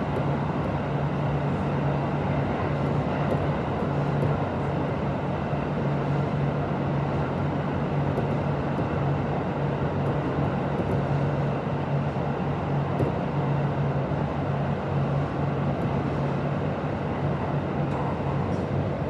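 Kintetsu 1026 series electric train running at steady speed, heard from inside the car: an even rumble of running noise with a steady low hum.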